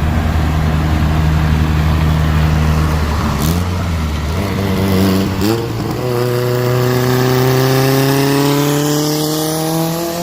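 Turbocharged Honda Civic EG hatchback's engine accelerating hard. After a couple of brief pitch shifts about 3.5 and 5.5 seconds in, its note climbs steadily through a gear. It is very loud.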